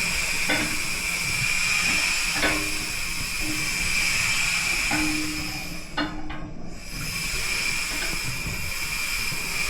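Steady hiss of escaping steam, with a few light clicks and short low hums over it; the hiss drops away briefly about six seconds in.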